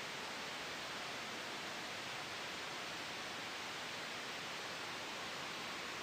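Steady synthetic white noise made for sleep: an even, soft hiss with no gusts or changes.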